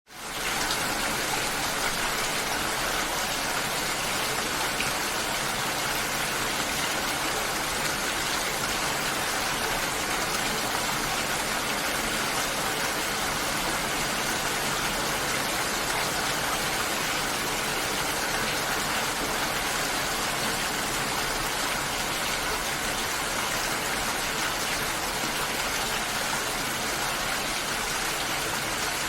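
Steady, even rush of water, fading in quickly from a brief silence at the very start.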